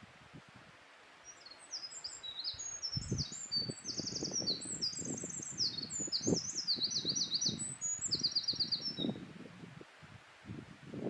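Eurasian wren singing one long, rapid song of about eight seconds: high, varied notes and buzzing trills strung together without a break. Low gusty rumbling sounds underneath.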